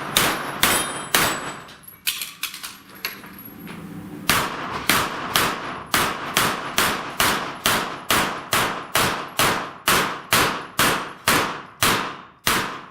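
Gunshots at steel plate targets, with the metallic clang of hits. Three quick shots, then a pause of about three seconds, then a steady string of about twenty shots at two to three a second.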